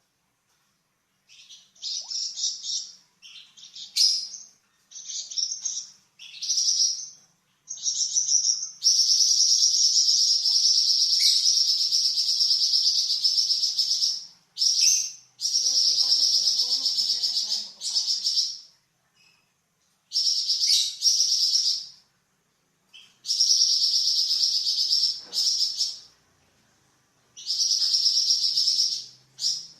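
Flamboyan songbird singing long, dense, high-pitched rattling trills (the 'nyecret' call). The song opens with short choppy notes, then runs one trill for about five seconds, then repeats phrases of two to three seconds with brief pauses.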